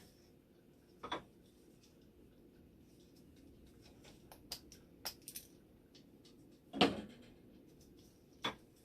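Scattered clicks and knocks of small hard parts being handled, the loudest a knock about seven seconds in, over a faint steady hum.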